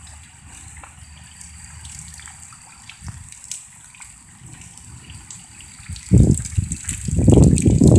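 Light rain and runoff after a storm: a steady watery hiss with many small drip ticks. For the last two seconds a loud, low, uneven rumble comes in several surges and drowns it out.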